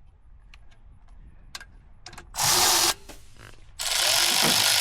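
A handheld power tool, run in a short half-second burst, then started again and held running steadily, with a few small metallic clicks before it.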